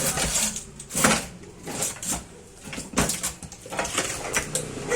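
Irregular knocks and clunks of metal parts and tools being handled while working on a sugarcane press, about six to eight strikes spread unevenly.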